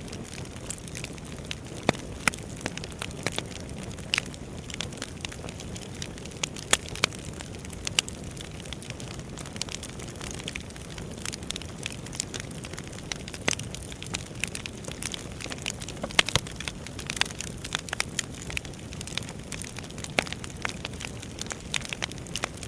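Wood fire crackling: a steady low rumble and hiss with frequent irregular sharp pops and snaps.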